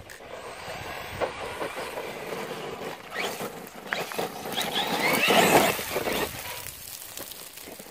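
Electric RC monster truck driving over dirt: a brushless motor whine that rises in pitch, with tyres churning and gravel clattering. It is loudest about five to six seconds in and fades near the end.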